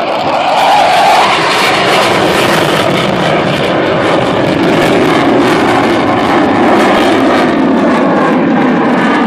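Jet engine noise from two F-15 fighters flying past, a loud continuous rush that swells in the first second. Its main pitch sinks as they pass.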